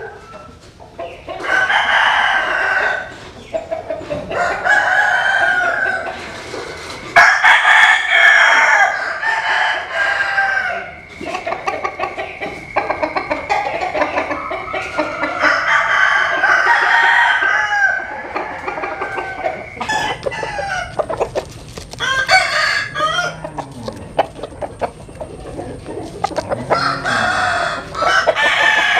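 Several roosters crowing one after another, some crows overlapping, with chicken clucking between the crows.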